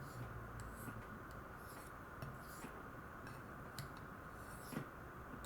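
ZDP-189 steel knife edge stroked across a lapped ultrafine ceramic stone: a series of faint, short scraping swishes, with a sharper tick near the end.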